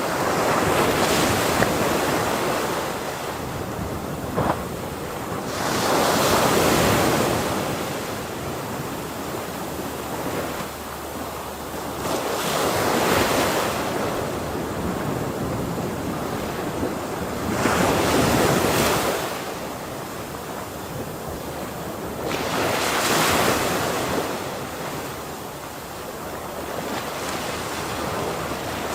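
Ocean waves breaking and washing in, with a swell of surf about every five to six seconds over a continuous roar of water.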